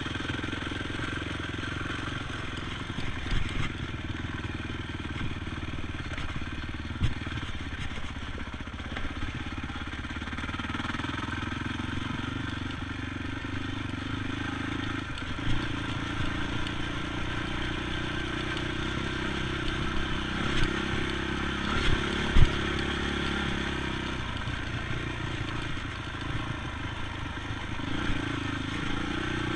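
ATV engine running, its pitch stepping up and down with the throttle, with a few sharp knocks and some clatter along the way; the loudest knock comes about two-thirds of the way through.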